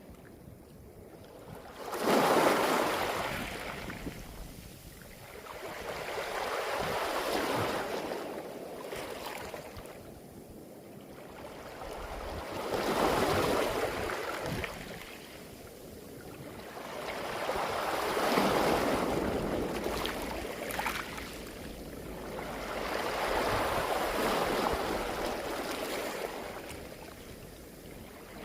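Waves washing up a beach of smooth round pebbles and drawing back, the pebbles rattling and clattering against each other in the surf. Five surges about every five to six seconds, the first, about two seconds in, the loudest.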